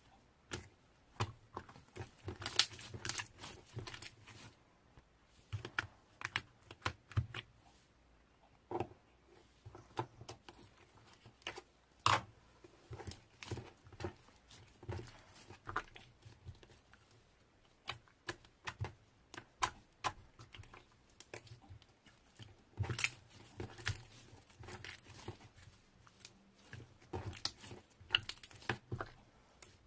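Slime being squished and pressed by hand, giving irregular sharp clicks, pops and crackles.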